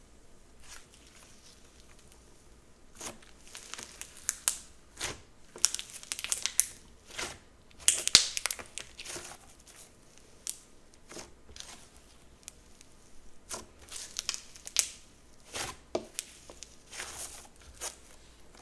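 Slime being worked by hand, giving a run of short crackling, crinkling pops, loudest about eight seconds in.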